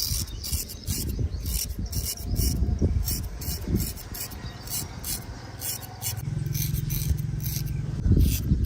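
Barber's razor shaving hair and stubble, short scraping strokes repeated about two or three times a second.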